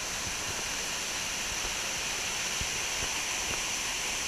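Steady rushing of a waterfall, an even roar of falling water with no let-up.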